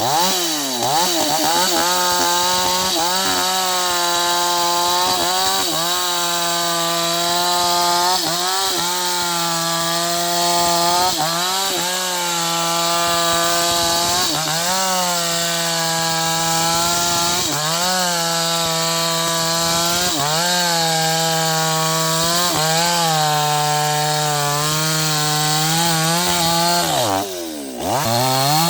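NewWest 628 two-stroke chainsaw running at full throttle through sengon wood. Its pitch sags briefly every second or two as the chain bites, drops low about a second before the end, and then revs back up.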